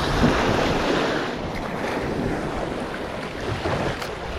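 Surf washing ashore with wind buffeting the microphone, a steady rushing noise that swells and eases.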